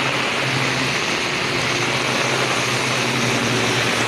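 Hyundai hatchback's engine idling close by, a steady low hum under the even hiss of heavy rain falling on flooded road water.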